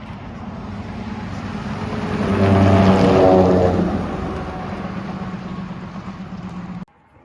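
A semi truck driving past, its engine and tyre noise swelling to a peak about three seconds in and then fading, before the sound cuts off suddenly near the end.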